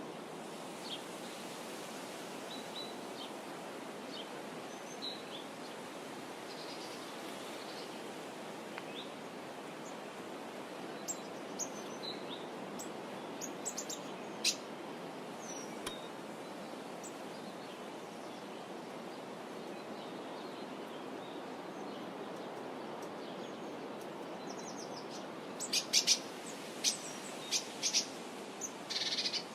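Birds calling over a steady background rush: scattered short chirps and whistles throughout, with a burst of sharp, repeated chirps near the end.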